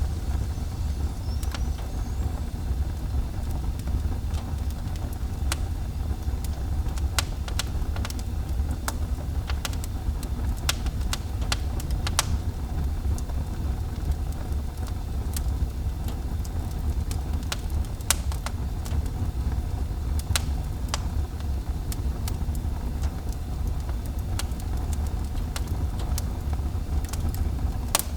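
Wood fire burning in a fireplace, crackling and popping with irregular sharp snaps over a steady low rumble.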